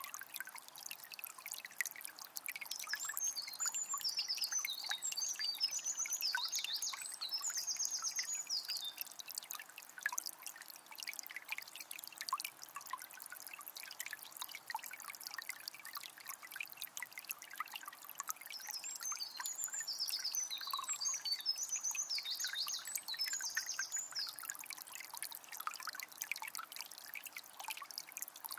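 Calm forest river flowing, a steady trickle and babble of water with many small drips. A songbird sings the same high phrase twice, a few seconds in and again in the second half.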